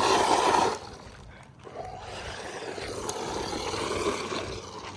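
Small electric RC car's motor and drivetrain whirring with tyres on dirt, loudest in a brief rough burst in the first second, then a quieter steady whir.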